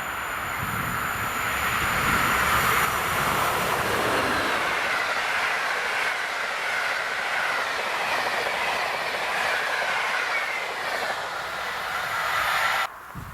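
A train passing close by on the main line: the rushing of wheels on rails, steady and loud, then cut off suddenly near the end.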